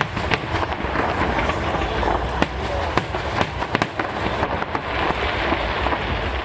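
Aerial fireworks going off in a dense barrage: many sharp cracks and pops, scattered irregularly, over a steady crackling haze of further bursts.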